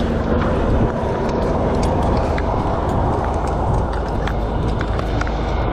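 Fire engine's diesel engine running steadily, a loud constant drone with occasional light ticks.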